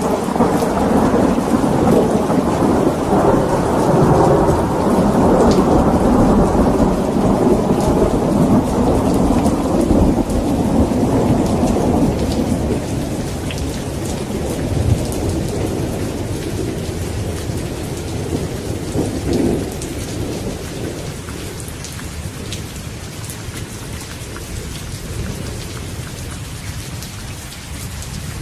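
Steady rain with a long rolling rumble of thunder over the first half that slowly dies away, and a smaller rumble about two-thirds of the way through.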